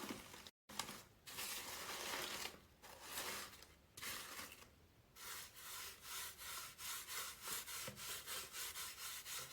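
Dry rubbing and scraping against an old book, a few longer strokes and then quick back-and-forth rubbing about three or four strokes a second from about halfway through.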